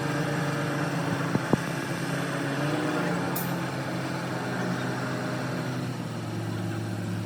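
An engine running steadily with an even, low hum. Two sharp clicks come about a second and a half in.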